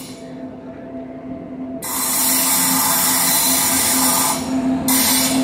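Approaching Indian Railways freight train locomotive: a steady machine whine and hum that grows louder. A loud hiss comes in about two seconds in, drops out briefly near the end, then returns.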